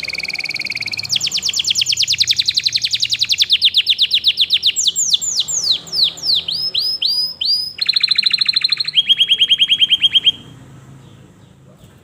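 Domestic canary singing a loud song made of rapid repeated trills. Each phrase is a fast run of the same note, then it switches to a new one every second or two, including a series of downward-sweeping whistles midway. The song stops about ten seconds in.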